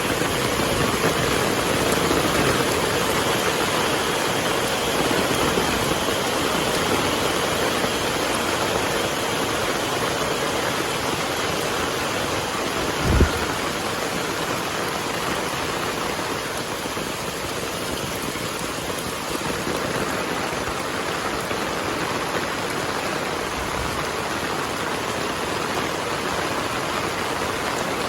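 Heavy rain falling steadily. A brief low thump about 13 seconds in, and a fainter one near the end.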